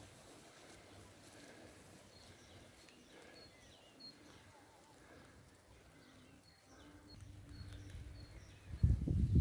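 Small birds chirping outdoors: short high chirps repeating every second or so over a faint background hush. About a second before the end, loud low rumbling and thumping noise cuts in.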